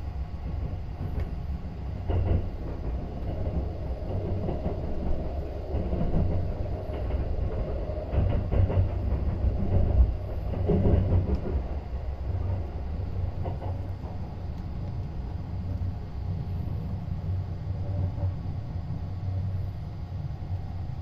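285-series sleeper train running, heard from inside the car: a steady low rumble of wheels on track with occasional clatter, growing louder for a few seconds in the middle.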